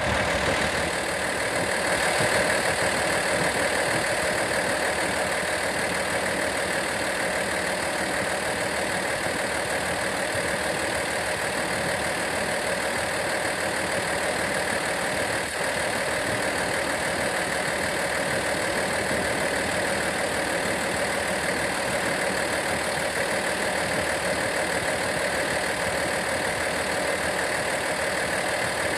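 A vehicle engine idling steadily, its sound even and unchanging.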